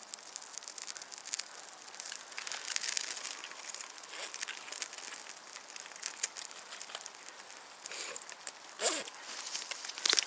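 Dense, irregular crackling and rustling from a small fire just lit on a homemade cardboard-and-paraffin burner, with twigs being handled over it. A louder snap comes about nine seconds in.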